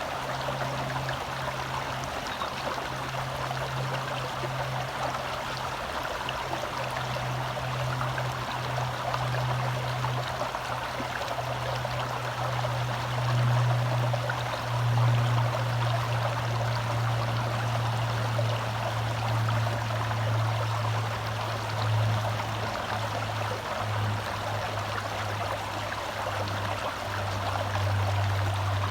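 Shallow forest stream flowing steadily in a continuous rushing babble. Underneath it runs a low steady hum that drops slightly in pitch about halfway through.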